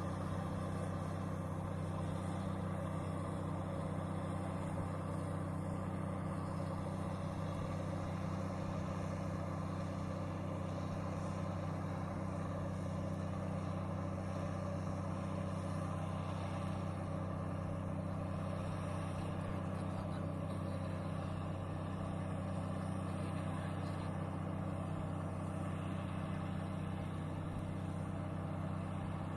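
Fishing boat's engine running at a steady speed, a constant low drone that does not change.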